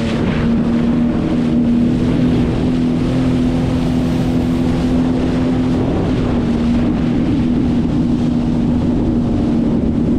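Sea-Doo Explorer Pro 170 personal watercraft's Rotax three-cylinder engine running at a steady speed, an even drone, with wind noise on the microphone.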